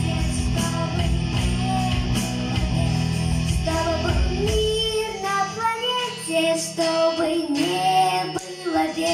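A song with a strummed guitar and a singing voice. About five seconds in, the low strumming thins out and the voice carries on over a sparser accompaniment.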